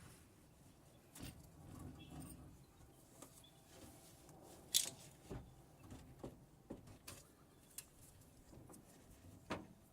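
Scattered short clicks and knocks, the sharpest a little under five seconds in, with faint rustling between them.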